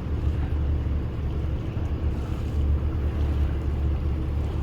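A boat's engine running steadily with a low drone, with wind noise on the microphone.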